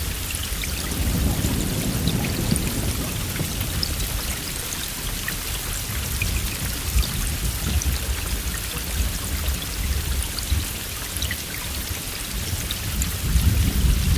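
Heavy rain falling steadily, individual drops ticking over a constant hiss. A low rumble of distant thunder swells about a second in and builds again near the end.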